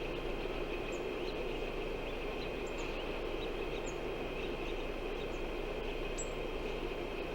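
Steady outdoor wind noise, an even rushing with no gusts standing out, with faint short high chirps scattered through it.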